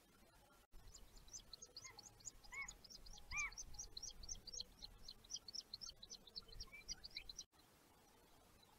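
Birds chirping: a fast run of short, high chirps, with two louder, lower arched calls about two and a half and three and a half seconds in. It starts just under a second in and cuts off suddenly near the end.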